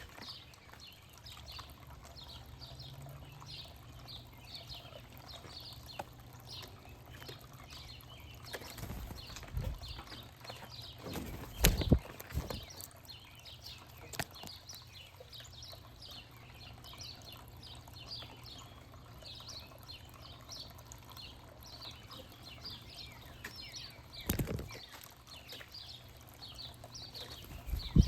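Many small birds chirping and twittering without pause, with a few low thumps; the loudest thump comes about twelve seconds in.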